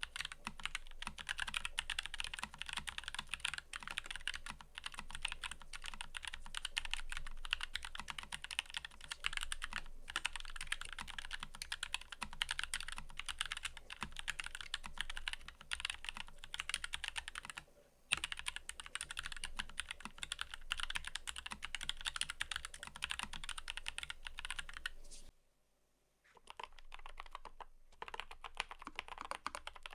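Fast, continuous typing on a mechanical keyboard, a rapid stream of key clicks. It pauses briefly about halfway through, stops near the end for about a second, then resumes more sparsely.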